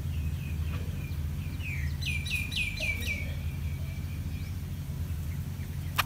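Bulbul calling: a quick run of about five chirps, each falling in pitch, about two seconds in, with fainter call notes before and after, over a steady low rumble.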